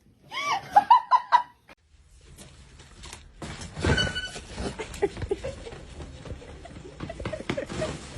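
A person laughing in quick rhythmic bursts for about a second and a half. After a short break come indistinct low background noises with scattered light knocks.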